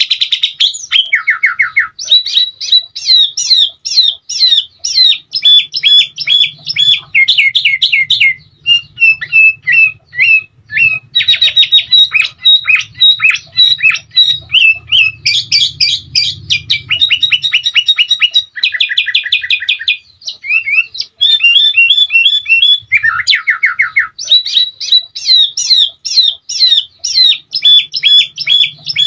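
Sooty-headed bulbul (kutilang) singing continuously: fast rolling trills of repeated notes alternating with quick rising and falling whistled phrases, with only brief pauses.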